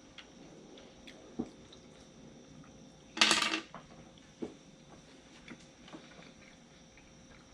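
Quiet eating sounds: faint clicks and small squishy mouth and utensil noises while sushi is eaten, with one short, loud noisy burst about three seconds in.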